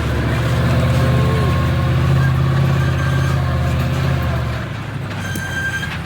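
A large vehicle engine running steadily with a deep rumble, then easing off about four and a half seconds in.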